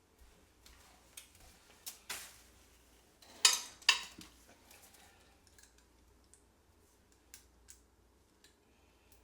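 Metal sockets clinking and clicking as they are picked through and tried on a bolt for size. Scattered light clicks, with two louder clinks about half a second apart a little over three seconds in.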